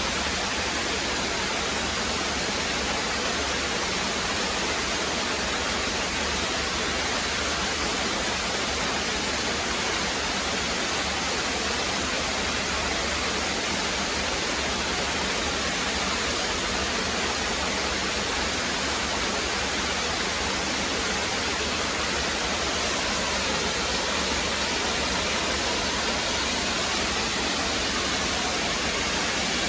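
Brook water rushing and splashing over rocks, a steady even rush.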